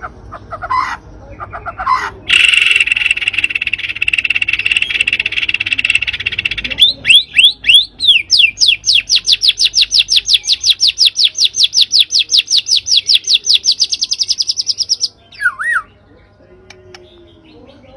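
Songbird calls played as a lure recording: a harsh buzzy chatter for about four seconds, then a long fast trill of rapidly repeated notes climbing steadily in pitch that stops abruptly, followed by one short whistled call.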